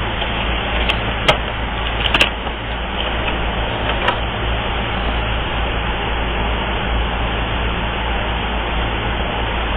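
Air conditioning blowing: a steady rush of air over a low hum, with a few light clicks in the first few seconds.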